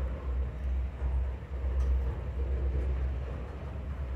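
Freight train rolling by, a steady low rumble.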